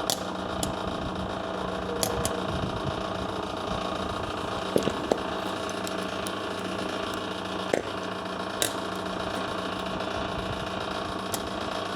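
Clausing 4210 cylindrical grinder running, its table on automatic hydraulic traverse: a steady motor and hydraulic pump hum with a few sharp clicks scattered through.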